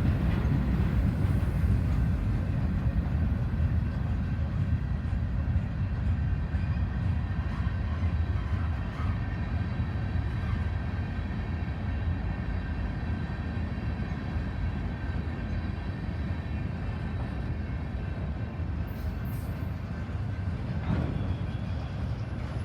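BNSF freight train rolling past, a steady low rumble of wheels on rail that slowly grows quieter.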